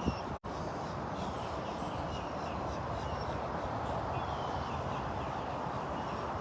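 Outdoor ambience: steady wind noise on the microphone with faint, brief bird chirps, and the audio dropping out for a moment about half a second in.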